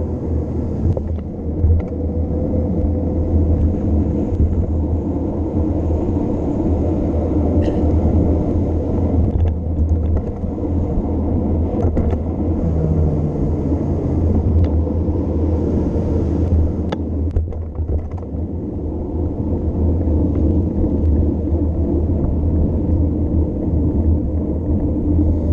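Wind buffeting the microphone during a bike descent: a heavy, steady low rumble, with a few sharp clicks and rattles about halfway through.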